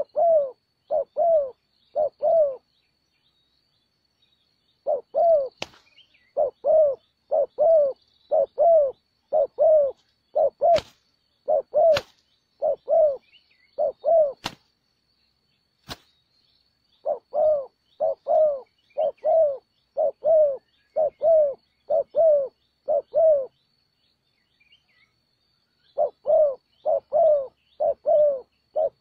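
Spotted dove cooing in runs of short, evenly repeated coo notes, about two a second, with pauses between runs. A few sharp clicks come in between.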